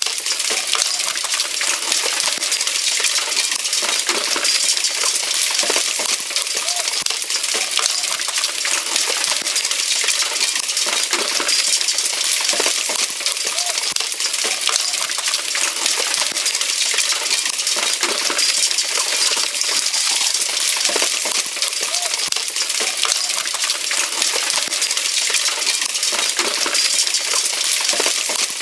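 A heavy hail shower: a dense, steady clatter of hailstones striking, with no let-up.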